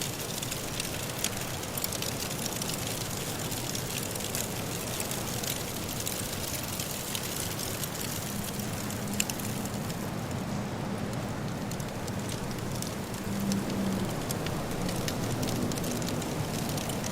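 Wood fire crackling in a fireplace, with frequent small sharp pops over a steady hiss. A soft blizzard wind blows underneath.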